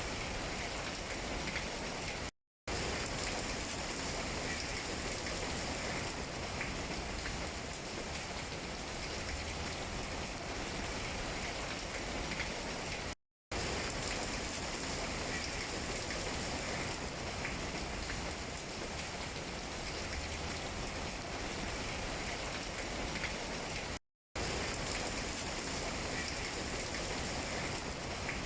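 Steady rain falling on tree leaves, an even hiss with scattered drop taps. It cuts to silence for a split second three times, about every eleven seconds.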